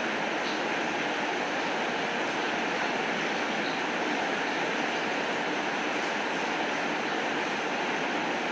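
Steady rainfall, an even hiss, with a few faint ticks scattered through it.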